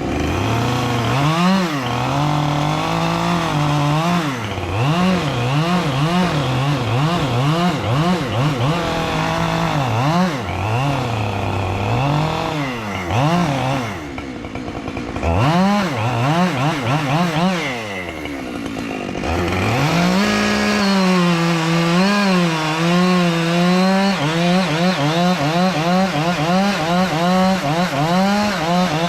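Two-stroke chainsaw cutting pine. The engine rises and falls in pitch about once a second as the throttle is worked and the chain loads in the cut, drops back twice near the middle, then holds high and steady through the last third.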